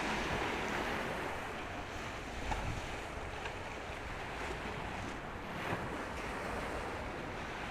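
Steady rush of wind and moving water with no clear engine tone, with a couple of faint knocks partway through.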